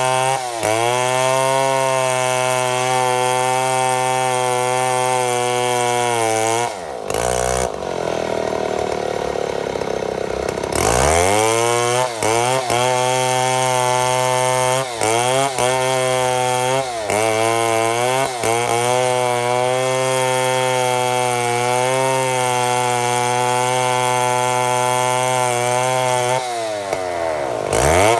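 Chainsaw milling mahogany lumber: the engine runs steadily at high revs under cutting load. About seven seconds in the revs drop to a low, uneven run, then climb back at about eleven seconds, with brief dips after that and another drop and recovery near the end.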